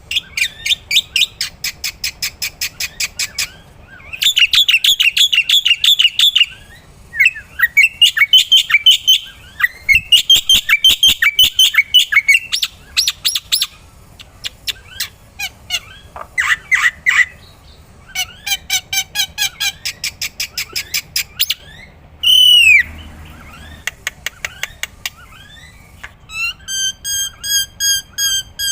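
Black-winged myna (jalak putih) singing continuously, a varied song of rapid repeated chirps and trills broken by short pauses. About 22 seconds in comes a downward-sweeping whistle, and near the end a run of evenly spaced two-tone notes.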